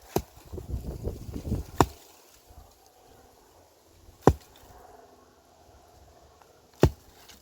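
Four sharp knocks, spaced about two and a half seconds apart, with low shuffling noise between the first two.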